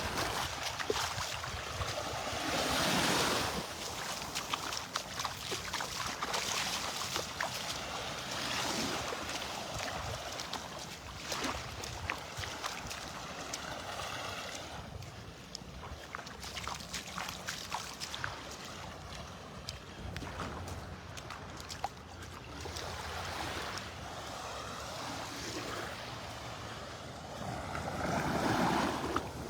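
Small waves breaking and washing at the shoreline, with wind buffeting the microphone. There are louder washes about three seconds in and again near the end.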